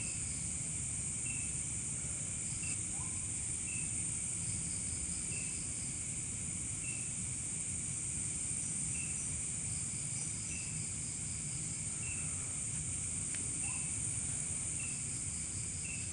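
Outdoor insect chorus: a steady high-pitched shrill with a second, pulsing insect call that comes and goes, and a short chirp repeating about every second and a half, over a low steady rumble.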